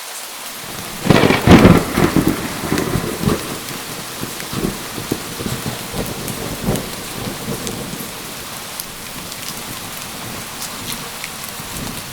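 Steady heavy rain falling on a surface, with a crack of thunder about a second in that rumbles and trails off over the following few seconds.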